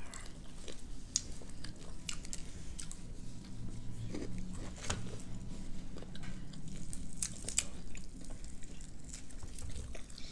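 Close-up eating sounds: chewing and biting into food, with many small, irregular crisp crunches and clicks.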